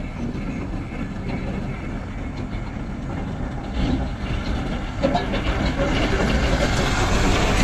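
Heavy diesel construction machine running with a rattling clatter, growing louder about five seconds in.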